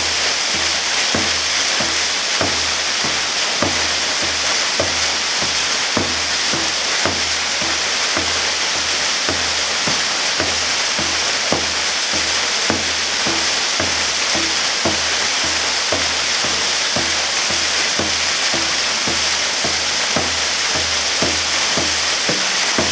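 Waterfall pouring in a steady, loud rush of falling water. Over it runs a regular beat of short low knocks, about two a second.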